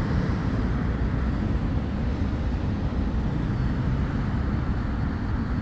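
Road traffic: a steady low rumble of vehicle engines and tyres, with no single vehicle standing out.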